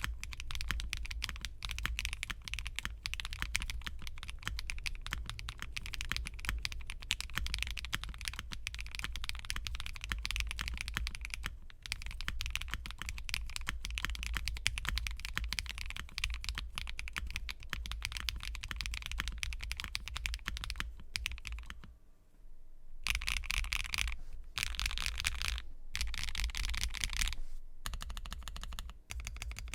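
Fast, continuous typing on a Laby67 mechanical keyboard with stock Blue Topaz switches, DMK Power keycaps, a polycarbonate plate and full foam. About two-thirds of the way through it stops for a moment, then comes back in short bursts.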